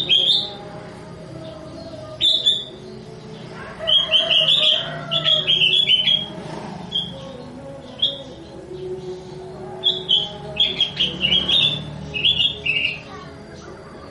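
Sooty-headed bulbul (kutilang) singing in quick runs of short, clear chirping notes, with pauses between the phrases. A steady low hum sits underneath.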